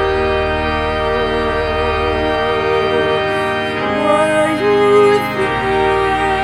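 Organ playing slow, sustained chords, with a slow melody on top.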